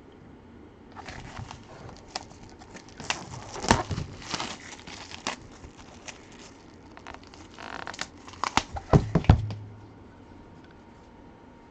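Plastic shrink-wrap being torn and crumpled off a sealed trading-card box, an irregular crinkling and crackling with a few sharper, louder crackles near the end.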